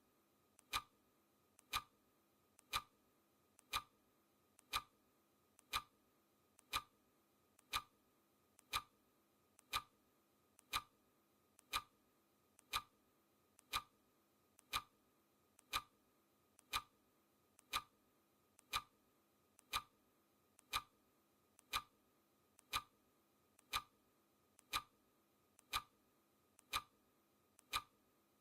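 Clock ticking sound effect, one sharp tick each second, each with a faint click just before it, counting down a timer.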